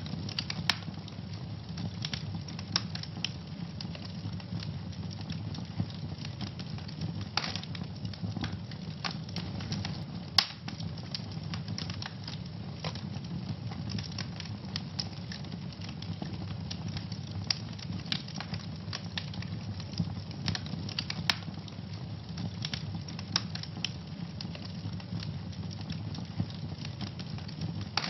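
Wood fire burning in a fireplace, crackling and popping irregularly over a low steady rumble of the flames, with one louder pop about ten seconds in.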